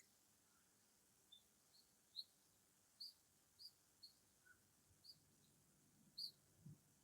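A small bird chirping: short, high chirps repeated irregularly, about one every half second to a second, against a very quiet background.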